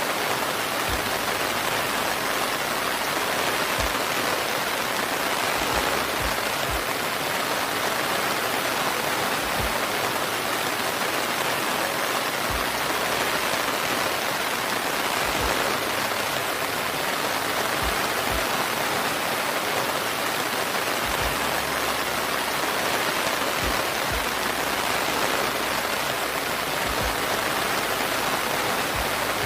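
Steady rain, an even unbroken hiss of many drops, with scattered soft low thumps every second or two.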